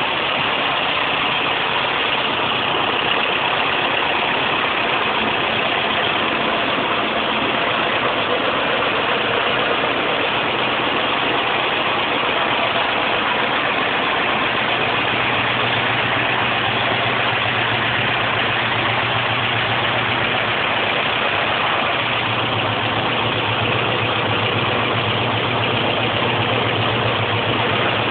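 Air-cooled VW Type 4 2-litre flat-four with carburettors running steadily at idle. Its low hum grows stronger about halfway through.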